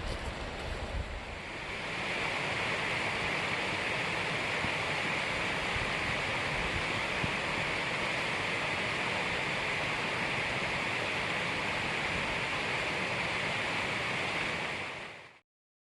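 Steady rush of creek water tumbling over rocks, setting in about a second and a half in and cutting off suddenly near the end. Wind buffets the microphone at the start.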